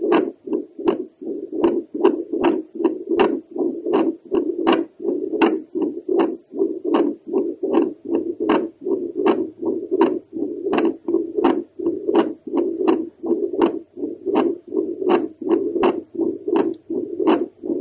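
Heartbeat heard through a home Doppler ultrasound probe held over the pulmonary valve area of the chest: a whooshing pulse of blood flow with a sharp click on each beat, about one and a half beats a second.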